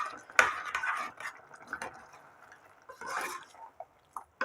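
A spoon stirring chicken and freshly added yogurt in a cooking pot, scraping and clinking against the pot, with a sharp knock about half a second in and another near the end.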